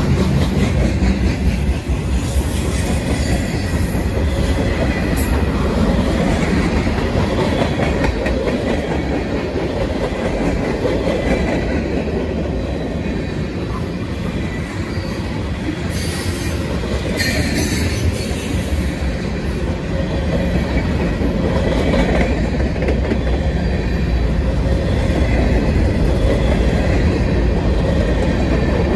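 Union Pacific freight train rolling past close by: a steady rumble and clatter of steel wheels on the rails. A little past halfway there are two brief high squeals from the wheels.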